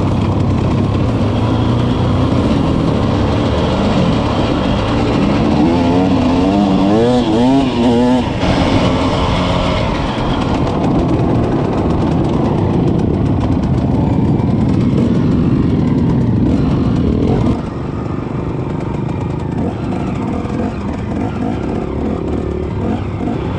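Off-road motorcycle or quad engines running, with quick revving up and down around six to eight seconds in. The sound steps down in loudness a little after seventeen seconds.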